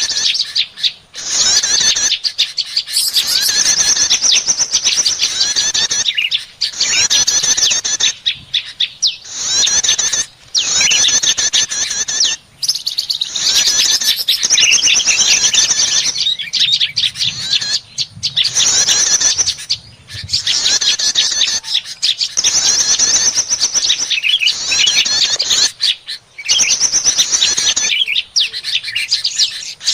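Prinias (prenjak) and other small birds chattering excitedly, dense rapid high chirps of a bird-lure recording. The chirping comes in bouts of a few seconds with brief breaks between them.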